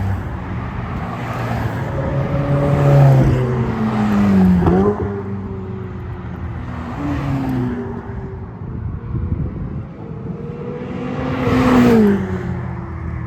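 Ferrari sports cars driving past one after another, each engine note dropping in pitch as the car goes by. The loudest passes come about three and four and a half seconds in, and again near the end.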